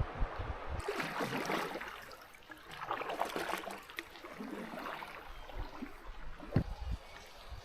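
Canoe paddle strokes splashing and pulling through river water, a couple of washes of water sound a second or two apart, with a dull knock near the end.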